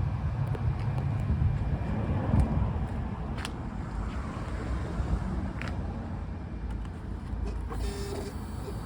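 Suzuki GSX-S750's 749 cc inline-four engine running steadily, with a low, even engine sound throughout.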